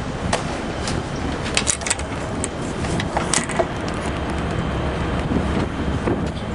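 Steady low rumble of the yacht's diesel engines under way, with wind noise on the microphone. A few faint clicks come about two and three seconds in.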